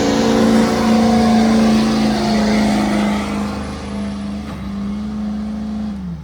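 Diesel pickup truck engine running at steady high revs under load during a truck pull. It slowly sags and fades, then the revs fall off sharply near the end as the throttle is let go.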